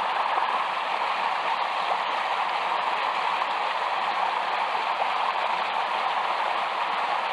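Chattooga River's current running past, a steady rush of moving water with no change in level.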